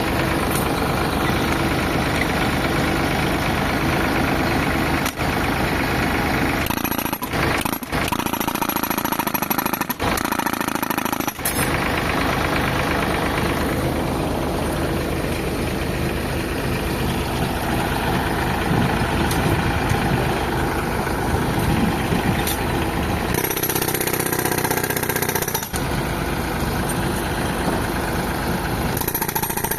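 Tractor engine running an air compressor, with a pneumatic rock breaker hammering rapidly against rock; the hammering breaks off and changes briefly a few times.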